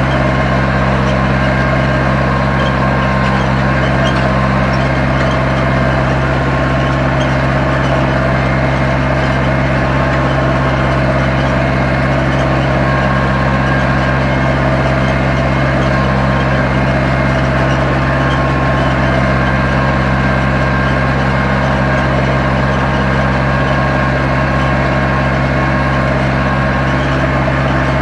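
Zetor 7245 tractor's four-cylinder diesel engine running at a steady, even speed under load while pulling a plough.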